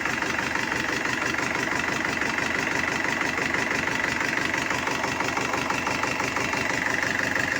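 Kirloskar diesel engine running steadily at idle, with an even rapid pulsing from its firing strokes.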